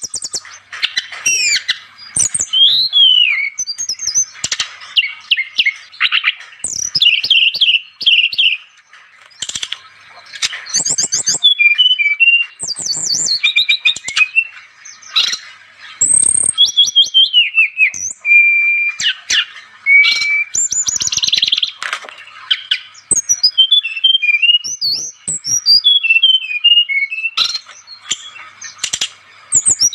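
Brown-chested jungle flycatcher singing a fast, varied song of quick chirps, slurred notes and short whistles, run together with only brief pauses.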